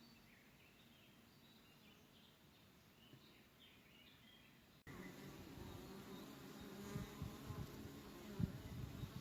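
Faint outdoor quiet with a few high chirps. A little under five seconds in, after a sudden cut, an insect buzzes close by with occasional low thumps.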